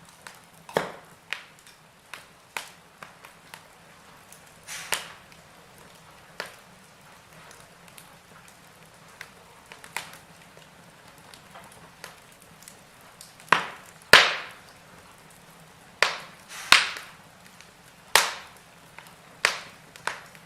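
Logs burning in a fireplace, crackling with sharp, irregular pops over a faint steady background. The pops come more often and louder in the second half.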